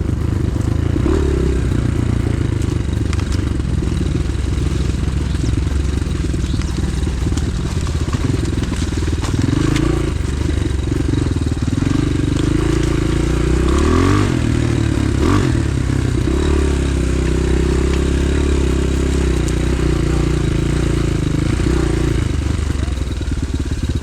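Pit bike engine running steadily while being ridden off-road, its pitch rising and falling with the throttle, with a few short revs about ten seconds in and again around fourteen to sixteen seconds.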